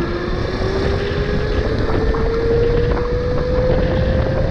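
Tuttio e-bike's electric motor whining, its pitch climbing slowly as the bike gathers speed, under a heavy rumble of wind on the microphone.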